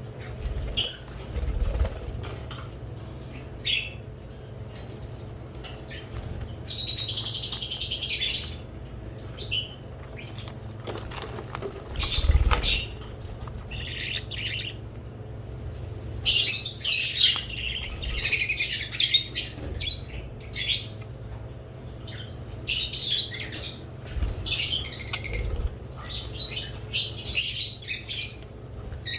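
Budgerigars and lovebirds chirping and chattering in short, high-pitched bursts that come and go, busiest in the second half.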